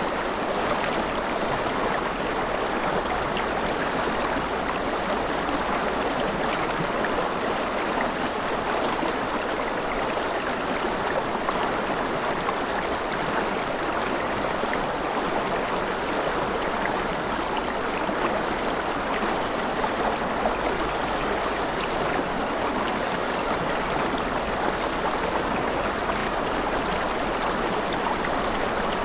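River water flowing and splashing in a steady, continuous rush, with a fine bubbling texture.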